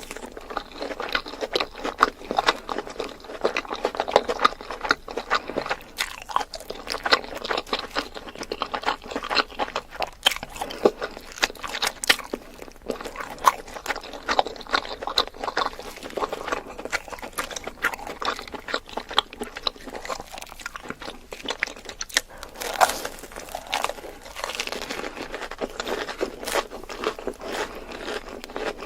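Close-up crunching bites and chewing of crisp food: a dense, irregular run of sharp crunches.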